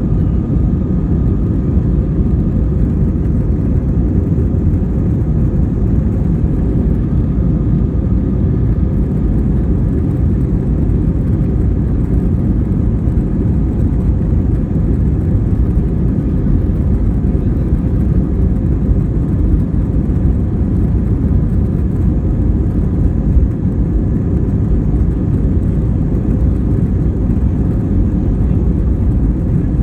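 Airbus A320 jet engines and airflow heard from inside the passenger cabin: a loud, steady rumble with a faint whine, holding constant throughout.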